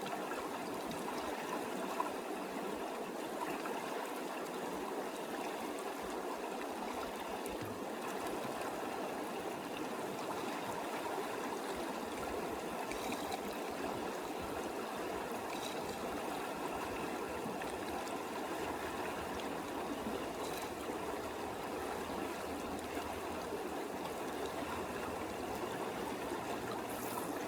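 Creek water flowing steadily, an even rushing of a deep, swollen stream.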